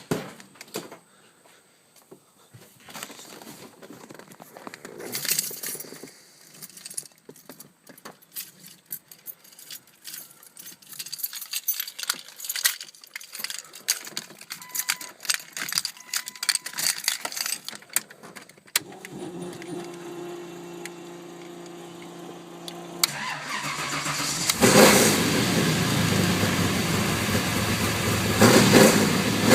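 Clicks and rattles for most of the first twenty seconds, then a steady hum for a few seconds. About twenty-four seconds in, a 383 stroker small-block V8 with a solid roller cam fires up and runs loudly, revved twice.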